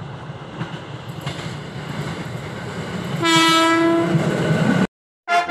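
Electric commuter train approaching with a rumble that grows steadily louder, then sounding its horn once for about a second. The sound cuts off abruptly near the end and music begins.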